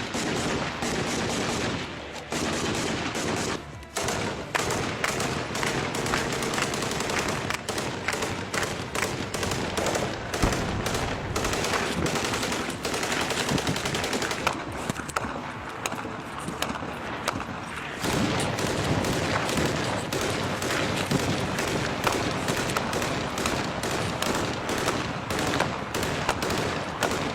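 Sustained automatic gunfire, shots in rapid bursts one after another. It lets up briefly about four seconds in and eases for a few seconds past the middle before picking up again.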